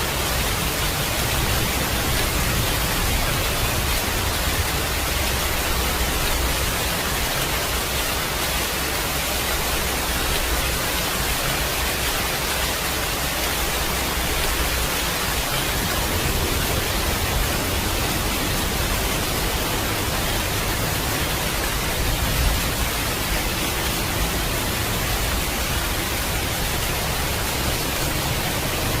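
Steady heavy rain, a dense even hiss, with low thunder rumbling beneath it that swells and fades.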